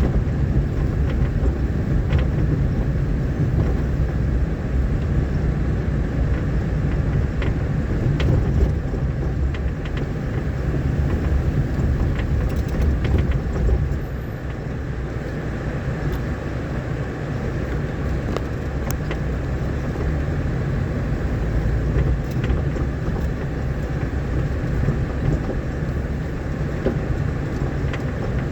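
Vehicle driving on a rough, rain-damaged dirt road: a steady low engine and road rumble with scattered small knocks and rattles. It gets slightly quieter about halfway through.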